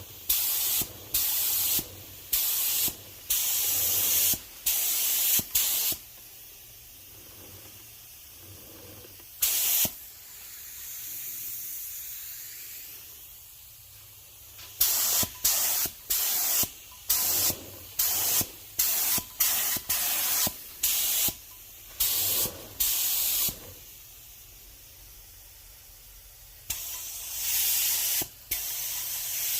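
Paint being sprayed onto the wheel in many short hissing bursts in quick succession, with quieter pauses between runs, a softer, longer hiss about ten seconds in, and a longer spray near the end.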